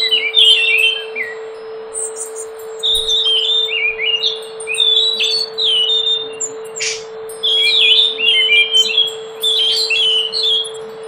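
Scaly thrush singing: repeated phrases of quick, slurred whistled notes, over a steady low hum and background hiss.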